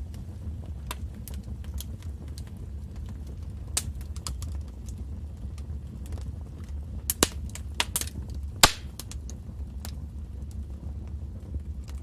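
Wood fire burning in a fireplace: a low steady rumble with irregular crackles and pops, a few sharper snaps about four, seven and nine seconds in.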